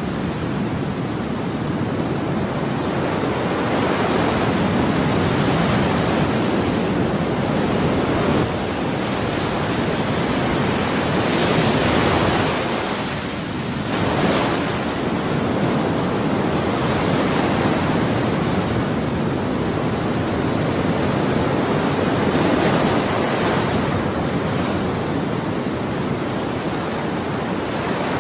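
Ocean waves breaking and washing in continuously, a steady rush of surf that swells and eases every several seconds.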